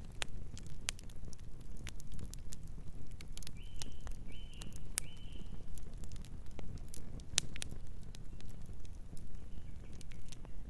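Wood fire crackling, with frequent sharp pops over a low, steady rumble of burning. A bird calls three short high chirps about a third of the way in, then twice more, fainter, near the end.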